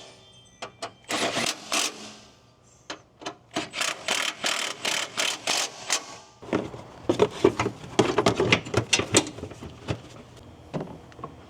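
Hand tools fastening parts in a car's engine bay: a run of quick, sharp rattling strokes about three or four a second, getting busier and louder past the middle.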